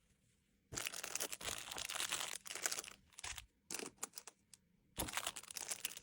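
Plastic packaging crinkling and rustling as it is handled, in busy stretches of crackle separated by a short pause in the middle.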